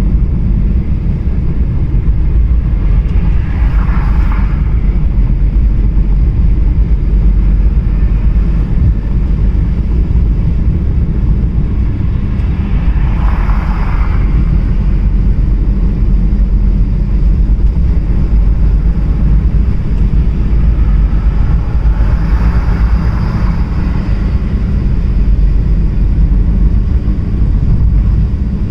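Car driving on the highway, heard from inside: a loud, steady low road-and-engine rumble. Three brief swells of higher hiss come roughly nine seconds apart.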